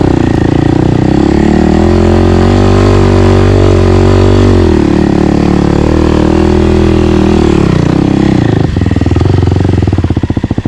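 Dirt bike engine pulling slowly up a trail climb in a low gear, its revs dipping and recovering twice. Near the end it drops to a slow, even chugging beat near idle.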